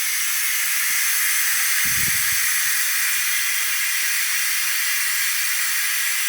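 Steady, loud hiss of compressed air driving a suction tool that is drawing stale gasoline out of a riding mower's fuel tank through a tube.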